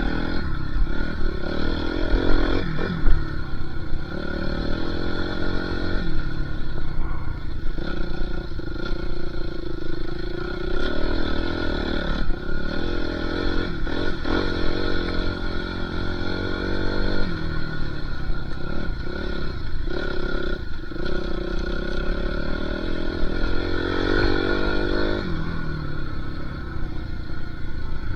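Dirt bike engine being ridden hard, revving up and easing off again and again as the rider works the throttle, with brief drops in between.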